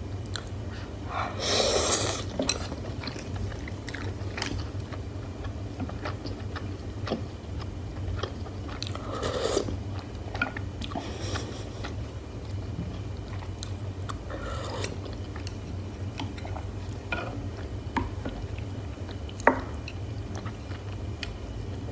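Close-miked eating sounds: chewing mixed with clinks and scrapes of cutlery against dishes. There are louder noisy bursts about two seconds in and again around ten and fifteen seconds, and a sharp clink near the end, over a steady low hum.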